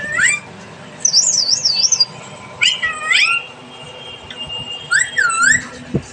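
Pet parrot making a series of high whistled calls: a quick warbling trill about a second in, swooping rising-and-falling whistles around three seconds and again near five seconds, and a long steady whistle between them.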